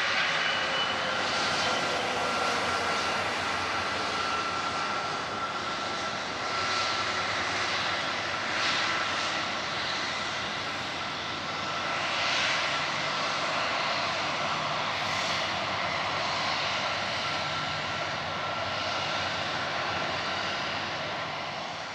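Boeing 747-400 four-engine jet airliner on its landing, its turbofans giving a broad steady jet noise with a high whine. A lower tone falls slowly in pitch over the first few seconds as the jet moves past and away.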